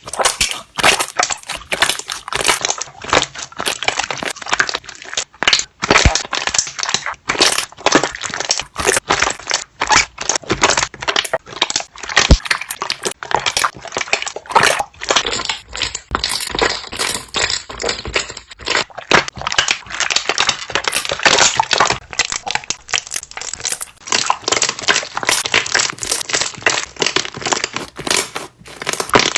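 Slime being pressed and squeezed by hand, giving a dense, irregular run of sharp crackling pops as trapped air bubbles burst.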